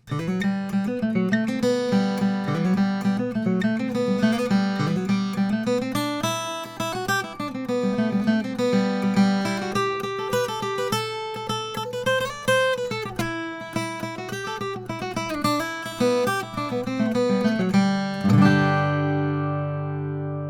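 All-solid-mahogany Martin 00-15M acoustic guitar being played: a steady run of picked notes over ringing bass notes, ending about 18 seconds in on a chord that is left to ring out.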